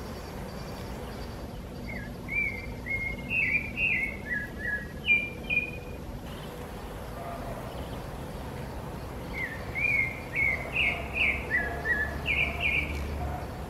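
A bird singing two phrases of quick, short chirping notes, each lasting about four seconds, with a pause of a few seconds between them, over a steady low background hum.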